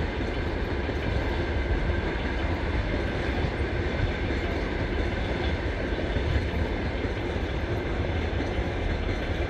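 Long-distance passenger train's coaches rolling along the track, a steady rumble with wheel clatter over the rail joints.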